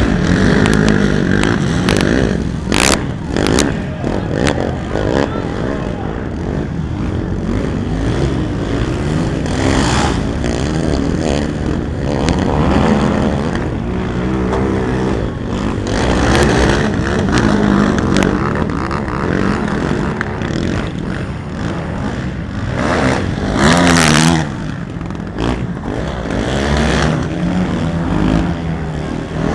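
Several racing quad (ATV) engines revving up and falling back as they race around the track, their pitch rising and dropping continually.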